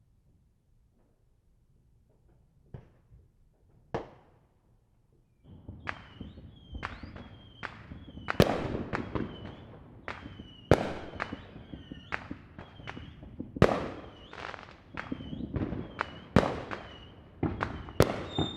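Distant fireworks going off across a city: a few scattered cracks at first, then from about five seconds in a dense run of sharp bangs, roughly one or two a second, over a steady low rumble, with a faint high tone coming and going between them.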